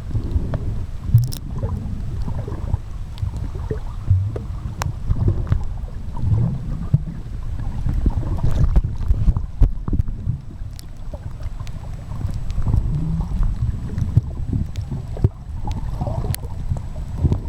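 Low, muffled rumble and sloshing of sea water, with scattered sharp clicks throughout.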